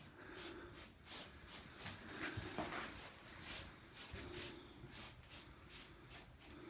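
Wood fire crackling in a stone fireplace: faint, irregular pops and snaps, several a second.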